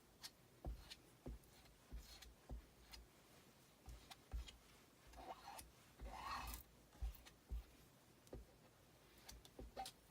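Faint, scattered taps and clicks, with a short scraping about five to six and a half seconds in: chalk paste being worked with a squeegee over a silk-screen transfer.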